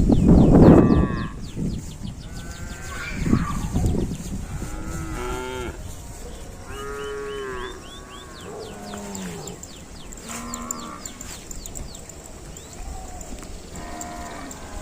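Cattle mooing, several separate calls one after another, some falling in pitch, after a loud low rumble in the first second.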